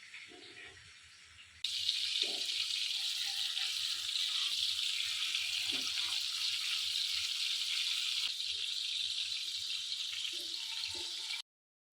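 Seekh kababs sizzling as they shallow-fry in hot oil: a steady hiss that starts abruptly about a second and a half in and cuts off shortly before the end.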